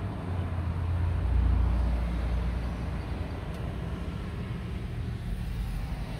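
Low, steady vehicle engine rumble heard from inside a car's cabin. It swells about a second in and eases off after another second.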